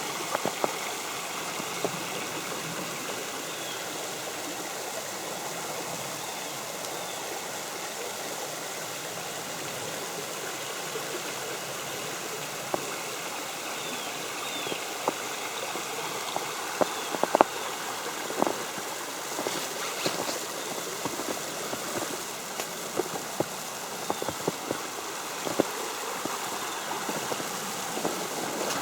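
Creek water flowing steadily, with scattered light ticks and taps on top, the sharpest about two-thirds of the way through.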